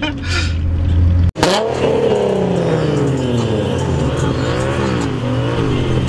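Nissan Z's VQ V6 engine revving: the pitch falls away, then swings up and down in a few quick blips. The sound breaks off suddenly about a second in.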